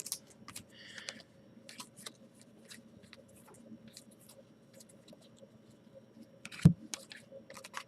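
Trading cards being handled and flipped through by hand: a scatter of faint, soft clicks and scrapes, with one louder knock about two-thirds of the way through.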